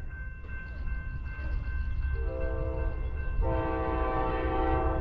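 Amtrak California Zephyr's locomotive horn sounding as the train approaches the station: a short blast about two seconds in, then a long blast from about three and a half seconds, over the low rumble of the oncoming train, which grows louder.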